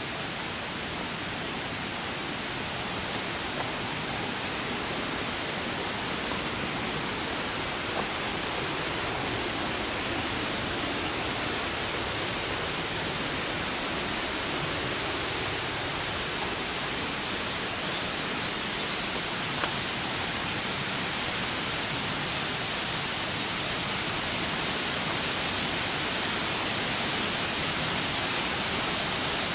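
Steady rush of water, an even hiss with no pauses, slowly growing a little louder.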